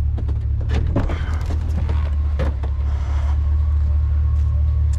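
Steady low rumble of a motor vehicle running, with several clicks and knocks in the first three seconds.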